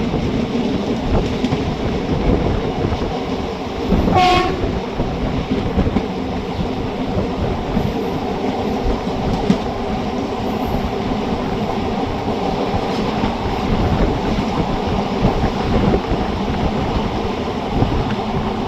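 Express train pulling out of a station and running past, a steady rumble of wheels and coaches on the track. One short horn note sounds about four seconds in.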